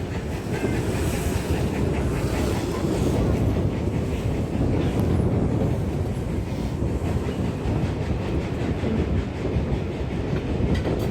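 Steam-hauled passenger train on the move behind GWR Manor class locomotive 7828 Odney Manor: a steady rumble of wheels on the track, heard from aboard the train.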